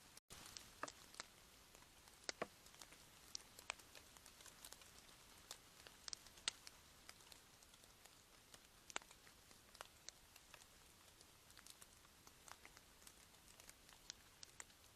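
Scattered raindrops dripping: irregular sharp ticks, a few a second, over a faint hiss.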